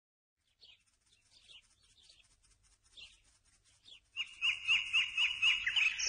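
Small birds calling: faint high chirps at first, then from about four seconds in a louder bird repeating a quick rising note about four times a second.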